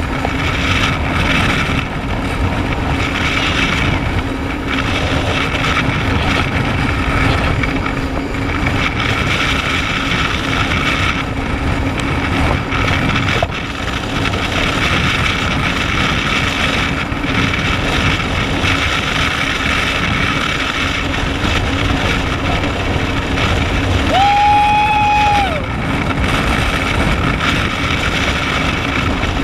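Jet ski engine running steadily at speed, with wind buffeting the microphone and water rushing past the hull. About 24 seconds in, a flat high tone sounds for about a second and a half.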